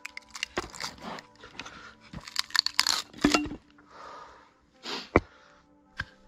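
Irregular rustling, crinkling and crunching handling noises with sharp clicks and knocks, a sharper crunch about three seconds in.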